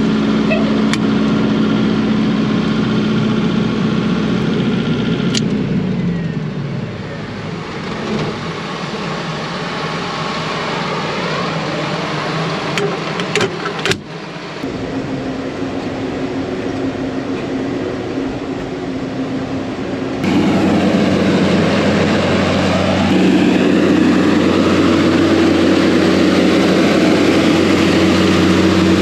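Engine running steadily, its pitch falling about six seconds in as it slows down. There is a sharp click about 14 seconds in. From about 20 seconds a louder engine runs steadily.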